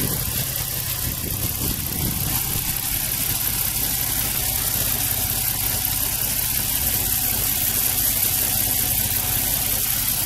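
2003 Nissan 350Z's VQ35DE V6 idling steadily. The car throws random cylinder-one misfires (code P0300), which the owner traces to an exhaust test pipe leaking ahead of the O2 sensor and making the engine run lean.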